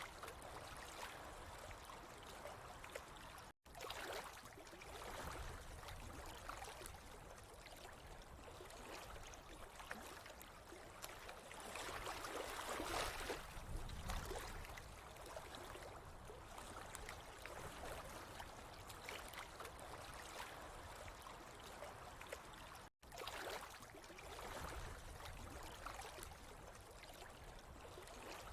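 Steady trickling, flowing water with gentle swells, cutting out for an instant twice.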